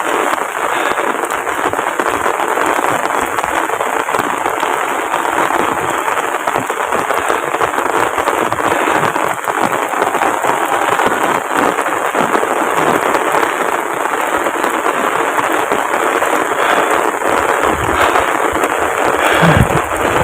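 Heavy rain pouring down, a loud steady hiss with fine close spattering. A few low thumps come near the end.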